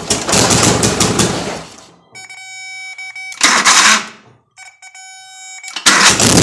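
Turbocharged Honda D-series engine on its first startup: it runs for about two seconds, then dies away. A steady electronic tone sounds twice, broken by a short loud burst about three and a half seconds in. Near the end the engine catches and runs again.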